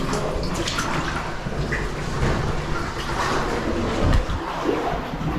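Water sloshing and splashing in irregular strokes as people crawl and wade through a wet cave passage.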